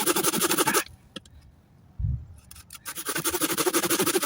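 Hand saw cutting through a log in quick, even strokes. The sawing stops about a second in, a low thump follows near two seconds, and the sawing starts again around three seconds.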